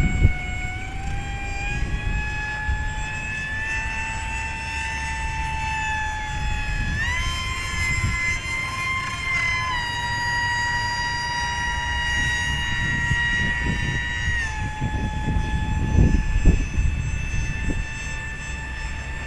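Electric motor and propeller of a small foamboard RC jet-style plane whining steadily in flight, the pitch stepping up and down with the throttle, over wind rumble on the microphone. The whine carries a strange prop noise, the sign of the overheated ESC having come loose so that the prop is chewing into the three motor wires.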